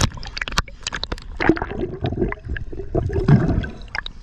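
Water gurgling and splashing close around a camera held by a spearfisher at the surface, broken by many sharp clicks and knocks.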